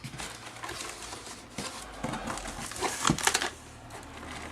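Cardboard box and packaging being handled and opened, rustling, with a short run of clicks and knocks about three seconds in.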